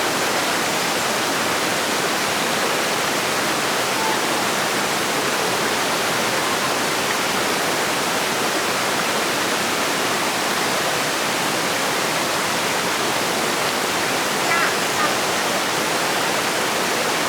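Steady rush of flowing water, even and unbroken, with a few faint short chirps near the end.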